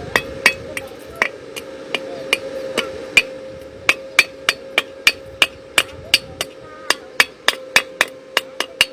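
A rapid, irregular series of sharp knocks, about three to four a second, over a steady hum.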